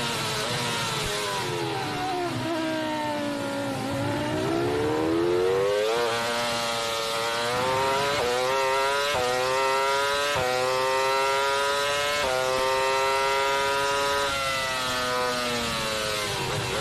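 McLaren MP4-19's Mercedes 3.0-litre V10 Formula 1 engine heard onboard at racing speed. The revs fall away for a few seconds, then climb hard through a series of quick upshifts, each a sudden drop in pitch, before falling again near the end as the car slows.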